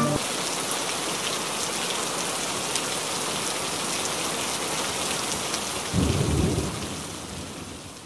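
Steady heavy rain hissing, with fine drop ticks, and a short low rumble about six seconds in; the rain fades out near the end.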